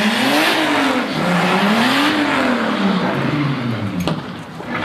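Car engine revving up and down twice, the revs climbing and falling smoothly each time, then dropping back near the end, with a sharp click about four seconds in.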